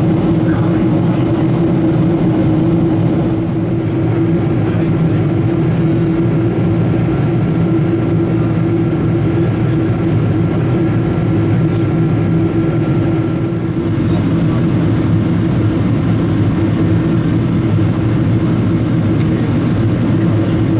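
Steady drone inside a Boeing 777-200ER passenger cabin in flight on the descent: engine and airflow noise with a low hum. A faint thin high tone sounds from about four seconds in to about thirteen seconds in.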